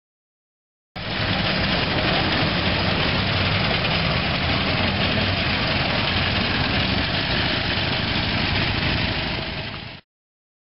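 A vehicle engine running steadily with no revving, starting abruptly about a second in and cutting off just before the end.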